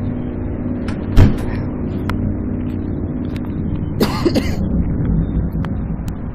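A steady low droning hum made of several pitches at once, of unknown source; the people hearing it liken it to construction noise. A sharp knock about a second in, and a short noisy burst about four seconds in.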